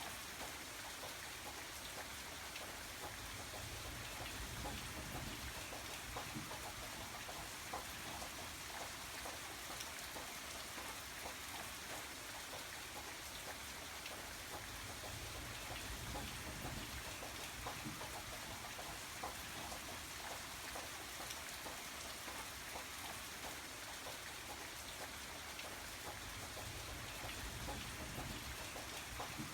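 Steady rain falling, a dense hiss of raindrops with many small individual drop taps, over a faint low rumble.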